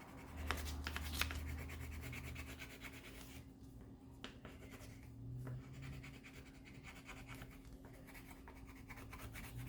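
Faint scratching of a coloured pencil on paper, shading in a shadow in short back-and-forth strokes, over a faint steady hum.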